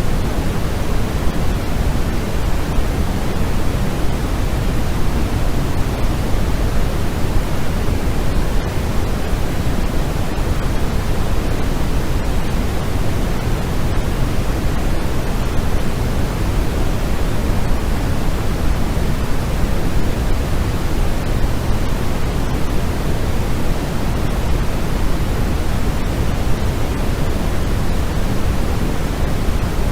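Steady, unchanging synthetic noise sold as white noise, its energy weighted toward the low end like pink noise, with no events or changes.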